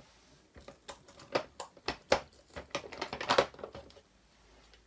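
Clear acrylic stamping blocks being picked out and handled, giving a quick run of light clicks and taps that stops about three and a half seconds in.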